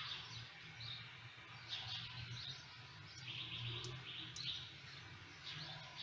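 Faint bird chirping in the background, in short repeated calls, over a low steady hum. Two small sharp clicks a little past the middle, as the wiring connector is handled.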